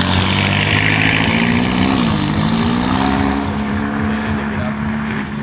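A car engine running loudly and steadily at a fast idle, its pitch dipping briefly about two seconds in and then settling back.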